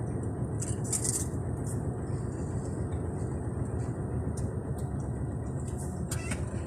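Steady low mechanical rumble of a running vehicle, with short high-pitched rattles now and then.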